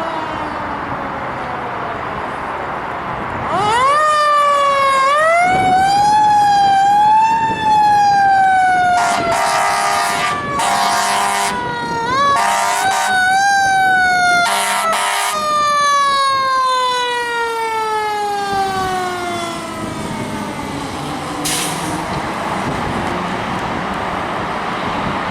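Fire apparatus responding: a siren winds up about three and a half seconds in, then slowly winds down, with a second brief wind-up near the middle. Several air horn blasts sound over it, over steady road and engine noise.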